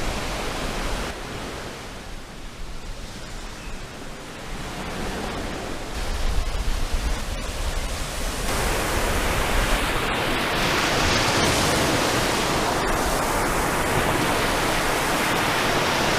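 Steady rushing of wind and sea at the shore, with wind rumbling on the microphone. It gets abruptly louder about eight seconds in.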